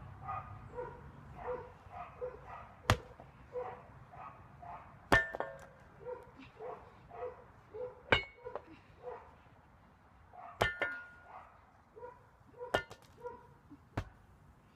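A dog barking steadily in the background, a short bark about every two-thirds of a second. Six sharp clicks or knocks land among the barks and are the loudest sounds.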